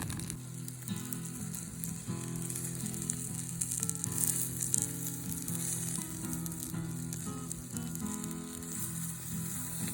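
Meat sizzling and spitting over a campfire, a steady crackling hiss, with soft background music of sustained notes.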